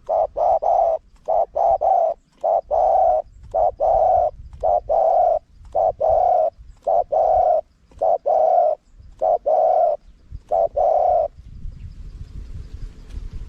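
Spotted dove cooing: a long run of short coo notes in grouped phrases, all at the same pitch. The cooing stops about eleven seconds in, and a low rumbling noise follows.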